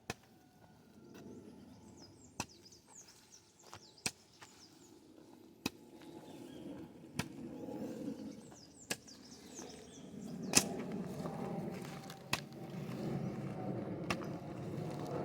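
Hoe blade chopping into the soil to dig planting holes for corn, one sharp strike about every second and a half to two seconds, with low rustling of earth that builds in the second half.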